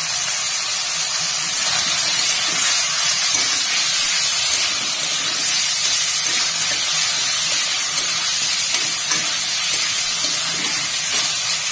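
Chicken offal and chopped tomato frying in hot mustard oil in a kadai, a steady sizzling hiss while the pieces are stirred with a spatula.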